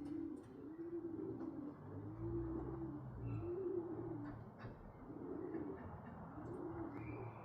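Homing pigeons cooing at the loft, a low arched coo repeating about once a second.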